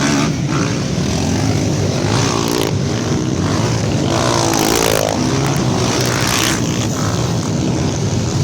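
Off-road trail motorcycle engines running together, one revving up and dropping back about four to five seconds in.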